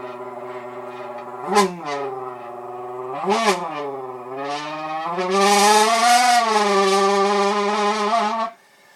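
A man imitating a car engine with his mouth, buzzing into a can used as an exhaust. A steady idle-like drone gets two quick rev blips, then rises to a higher, louder, rougher note about five seconds in. It is held like a revved engine and cuts off near the end.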